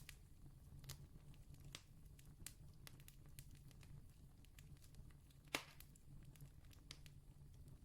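Campfire crackling faintly: scattered small pops and snaps, with one louder pop about five and a half seconds in, over a low steady hum.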